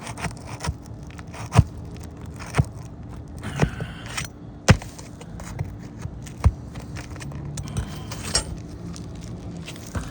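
A hand tool working a roof shingle and its nails loose: sharp knocks, about one a second, with scraping between them.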